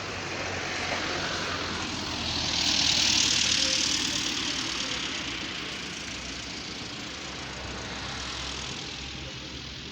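A vehicle going by: a rushing noise swells to its loudest about three seconds in, then slowly fades away.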